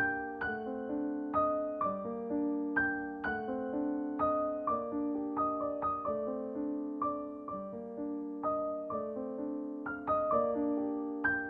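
Background piano music: a gentle, unhurried melody of struck notes, each fading away, over sustained chords.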